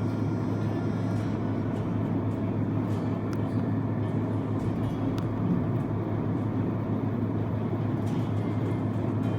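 Truck's diesel engine running with a steady low hum and rumble.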